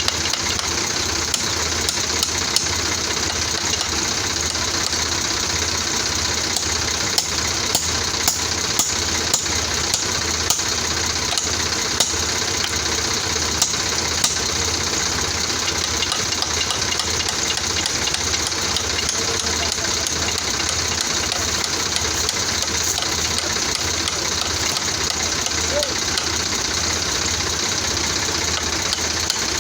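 Sonalika tractor's diesel engine running steadily, with scattered sharp clicks and knocks over the engine noise.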